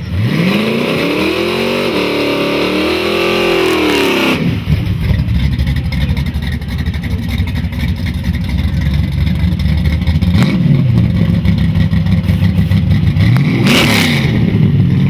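Chevrolet Malibu drag car's engine revved hard and held for about four seconds with a hiss of spinning tyres, a burnout on the wet pad, then cut off suddenly. It then idles low as the car rolls up, with short throttle blips about ten seconds in and near the end.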